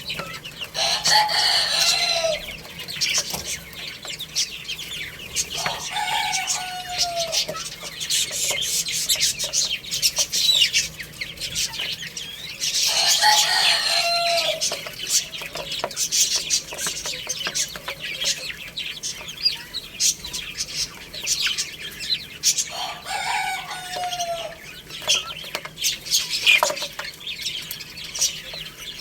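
Roosters crowing about four times, each crow a long call that drops in pitch at the end, over a steady background of chicks cheeping and chickens clucking.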